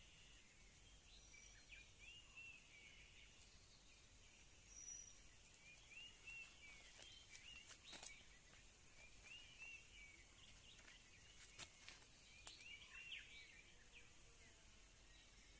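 Faint wild bird calls: short arched chirps repeated in small groups, with a few sharp clicks about halfway through.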